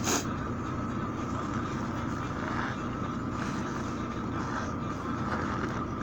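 Steady low rumble of a vehicle engine running at idle, with a thin steady whine above it and one short sharp click just after the start.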